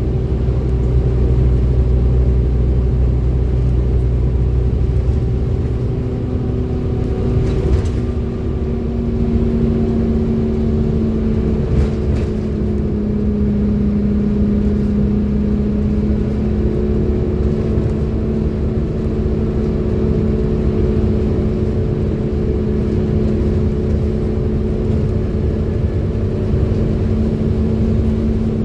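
Bus engine and drivetrain running under way with a steady vacuum-cleaner-like whine, the 'hoover' sound, over a deep rumble. About six seconds in the rumble eases and a lower whine rises a little and then holds. There are brief knocks twice, around a third of the way in.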